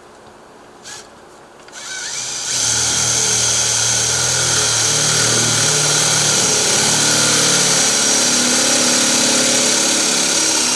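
Power drill boring a half-inch hole through a storm door for the handle hardware. It spins up about two seconds in and then runs steadily under load, its motor note shifting slightly as the bit cuts.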